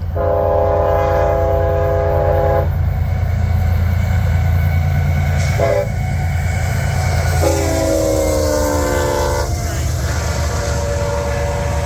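Diesel freight locomotive sounding its multi-chime air horn while approaching: a long blast, a short blast, then another long blast that slides slightly lower in pitch, over the steady low rumble of the locomotive and train.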